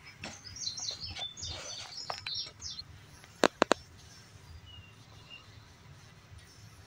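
Small birds chirping in the background in quick clusters of high notes, then three sharp clicks in quick succession a little past halfway.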